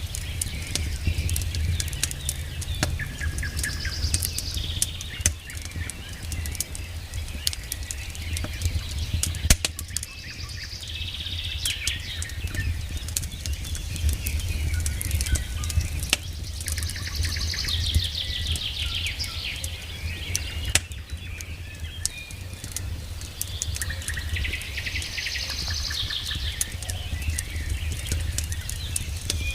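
Campfire crackling with scattered sharp pops, while a songbird sings a short trilled phrase about every six or seven seconds.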